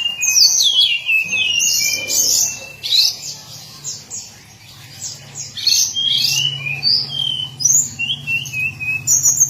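Hill blue-flycatcher singing a fast, varied, high warbling song of short notes, many of them sliding down in pitch.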